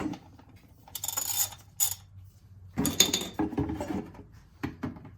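Ratchet wrench clicking and rattling in several short bursts as it loosens a 17 mm oil drain plug.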